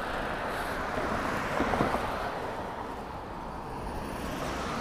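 Motor traffic passing on a busy city street, with one vehicle going by loudest about two seconds in.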